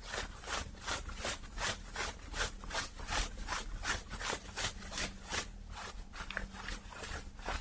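Fast, even scratching and rubbing strokes on the fabric of a hat, about four a second, with a short lull about six seconds in.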